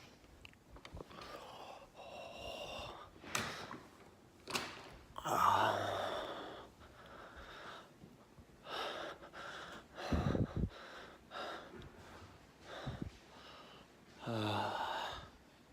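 A person gasping and breathing sharply against the cold, in short separate bursts with pauses between, and a few faint knocks.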